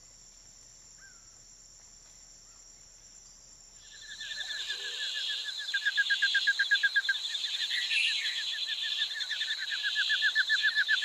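Tropical forest wildlife chorus: a faint, steady, high-pitched insect whine, then about four seconds in a loud, fast-pulsing call sets in over a ringing whine and keeps going.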